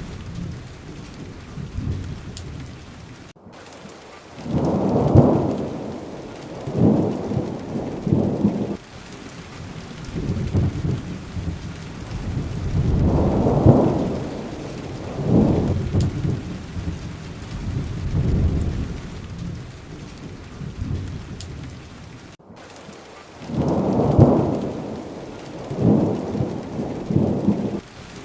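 Steady rain with rolling thunder: low rumbles swell and fade several times over the rain's even hiss, with two very brief dropouts to silence.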